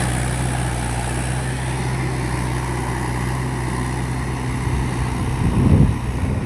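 Mahindra 585 tractor's diesel engine running steadily at low revs, with a brief louder sound about five and a half seconds in.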